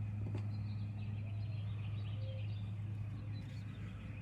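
Outdoor ambience: a steady low machine hum, with faint bird chirps over it.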